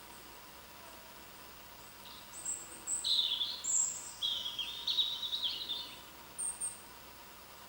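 A small songbird singing over a faint steady background hiss: a quick run of high chirps and warbled notes starting a little over two seconds in and lasting about four seconds, then two short high notes near the end.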